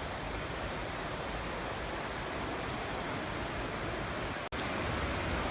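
Creek water rushing, a steady hiss, broken by a sudden momentary dropout about four and a half seconds in.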